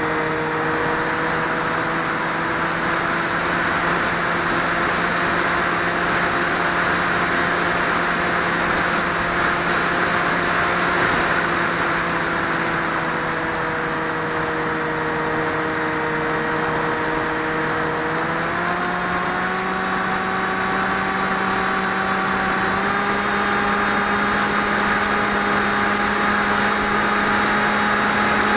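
Electric motor and propeller of a Swift 2 FPV flying wing running in flight: a steady hum over rushing air noise. The pitch rises in two steps, about two-thirds of the way through and again a few seconds later, as the throttle is raised.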